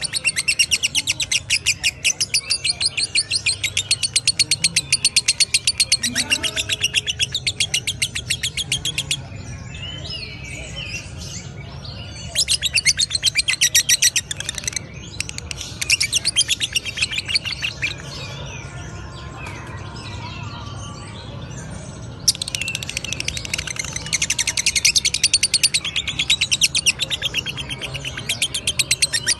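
Lovebird singing its long "ngekek" chatter: rapid, shrill notes repeated many times a second in long unbroken runs. A run of about nine seconds, then shorter runs with softer, looser twittering between them, and another long run near the end.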